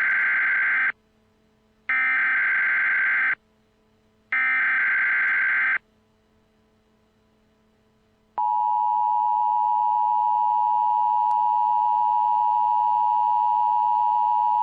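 Emergency Alert System tornado-warning broadcast tones. First comes the end of one data burst of the warbling digital header, then two more, each about one and a half seconds long. After a few seconds' gap, the steady two-tone attention signal starts about eight seconds in and holds to the end. Together the tones announce that a new tornado warning is about to be read.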